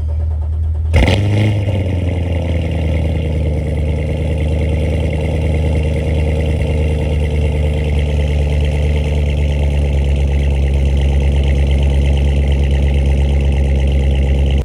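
A car engine running, with a sudden loud burst about a second in whose pitch falls and settles, then a steady, deep, even engine note.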